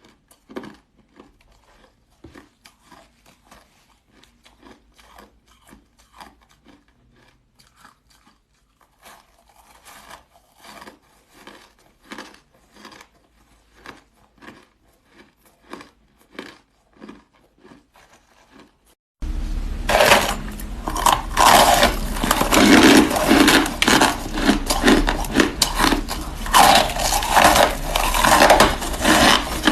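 Frozen flavoured shaved ice being bitten and crunched close to the microphone, in separate quiet crunches. About two-thirds of the way in it turns suddenly much louder into dense, continuous crunching and scraping of ice.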